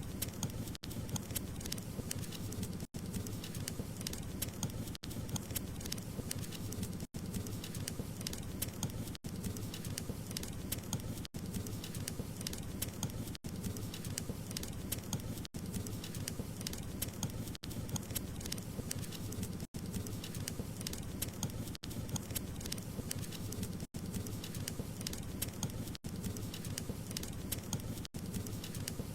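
Wood fire crackling in a fireplace: a steady low rush of flame with many small sharp pops and crackles. A very brief dropout comes about every two seconds.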